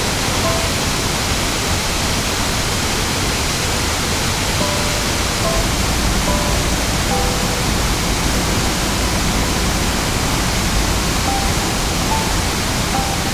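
Steady rush of a mountain stream, the Oirase stream flowing over rocks, with soft background music of scattered single notes over it.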